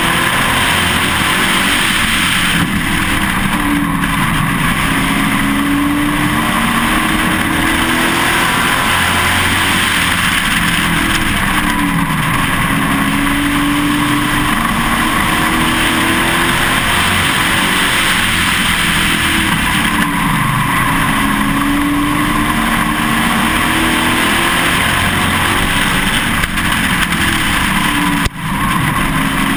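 A Pro Truck's race engine heard from on board, running hard at full race pace, its pitch rising and falling again and again as it accelerates and lifts around the oval. Steady road and wind noise runs under it.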